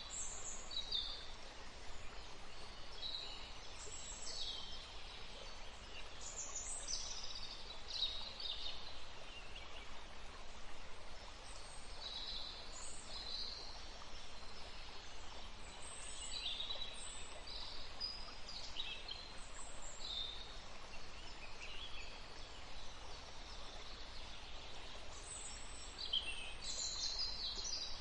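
Songbirds chirping in many short, scattered calls over the steady rush of a forest stream.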